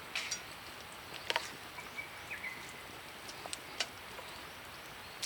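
Monjayaki sizzling on a hot griddle over a campfire: a steady hiss with scattered sharp pops and clicks, the loudest about a second in.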